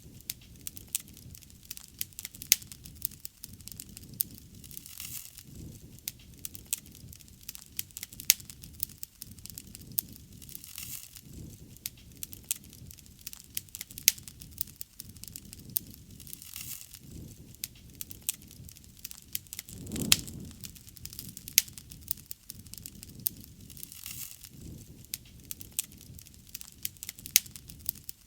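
Wood fire burning: frequent sharp pops and snaps over a low rushing of flames that swells and fades, most strongly about twenty seconds in.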